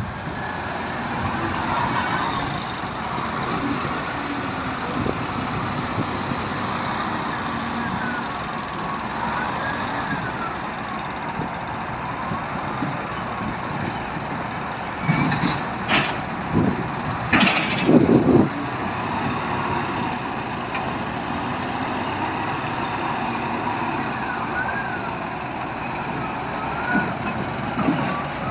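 Heavy truck engine running steadily during log unloading, with a faint whine that rises and falls. About halfway through comes a short cluster of loud knocks and hisses.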